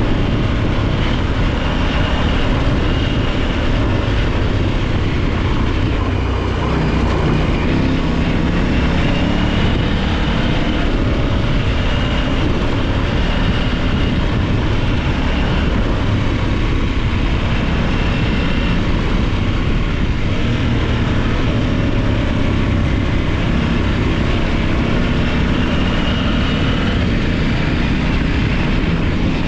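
Large adventure motorcycle being ridden, its engine running steadily under heavy wind rush on the microphone.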